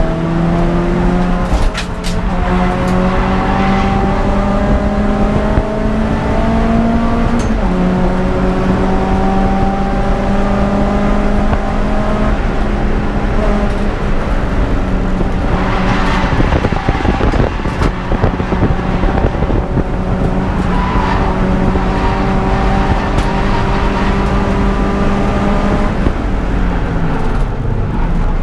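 Peugeot 206 GTI's four-cylinder petrol engine running hard under racing load. Its pitch climbs slowly and drops sharply at upshifts about 2 s, 8 s and 12 s in, holds fairly steady through the middle, then climbs again before another drop near the end.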